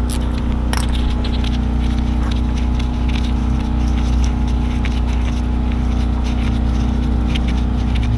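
Hand tools clicking and scraping on the rear brake caliper's lower bolt in irregular, scattered strokes, over a steady low hum.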